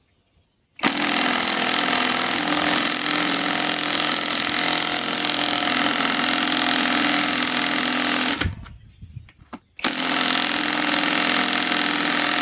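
Hercules Gen 2 compact cordless impact wrench hammering as it drives a large fastener in. It runs for about seven seconds, stops briefly, then hammers again.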